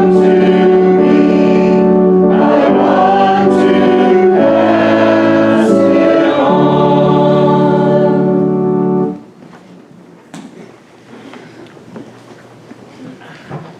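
Church congregation singing a hymn with instrumental accompaniment, ending on a long held final chord. The music cuts off about nine seconds in, leaving faint hall noise with a few small knocks.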